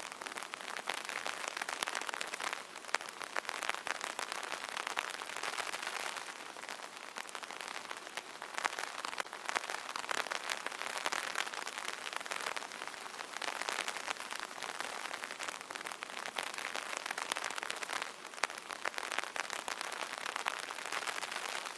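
Steady light rain pattering on an umbrella canopy, a dense spray of small drop taps with some louder drops standing out.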